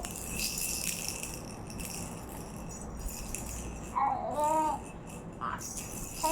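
A toy rattle shaken again and again, with a short wavering pitched sound about four seconds in.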